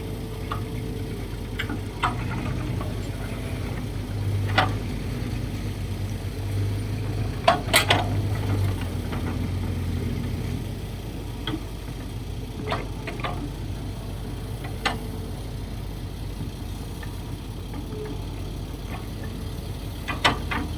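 Kobelco SK135SR hydraulic excavator's diesel engine running steadily, its hum swelling for a few seconds while the machine works. Occasional sharp metallic clanks are heard, a pair close together about eight seconds in.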